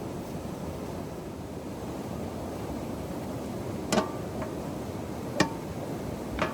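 Steady rushing background noise with three sharp taps, about four, five and a half and six and a half seconds in.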